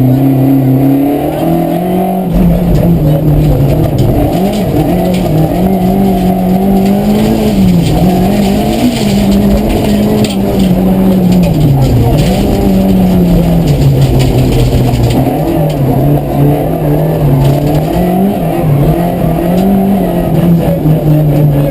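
Rally car engine running hard on a stage, its note rising and falling repeatedly with gear changes and lifts off the throttle, with a sharp dip about twelve seconds in.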